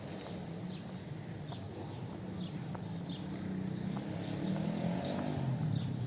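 Small birds chirping in short, high, falling notes, over a low rumble that grows louder in the second half.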